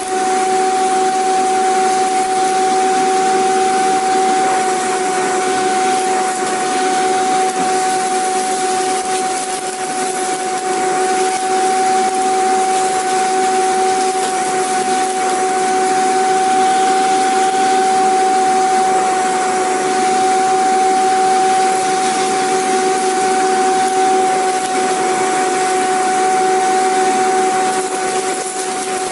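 Vacuum cleaner running steadily: a constant rushing hiss with a steady motor whine.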